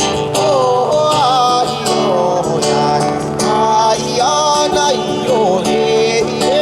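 Live song: acoustic guitar strumming under a singing voice that holds long notes and glides between them.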